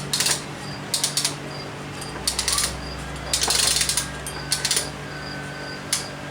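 Briggs & Stratton model FI single-cylinder engine running with a steady hum and clusters of sharp clicks about once a second, running a little rich.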